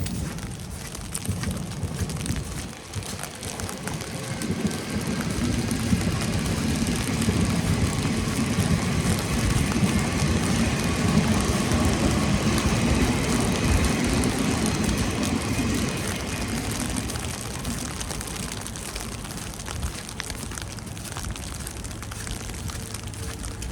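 A vehicle passing on a wet road. Its tyre hiss and engine build over several seconds, are loudest about halfway through, then fade, over a steady wet hiss of falling precipitation.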